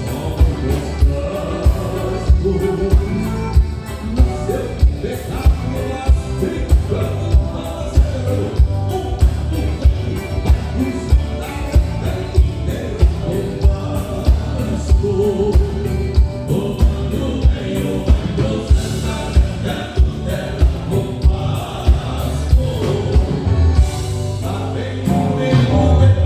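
Live gaúcho band music: voices singing over a steady, driving beat.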